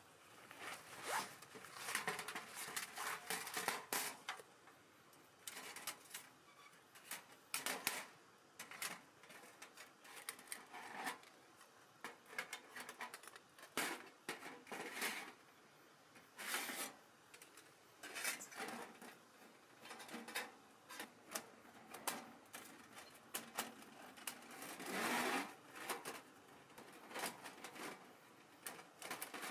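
Irregular handling sounds: short clicks, scrapes and rustles, with a longer rasping burst near the end.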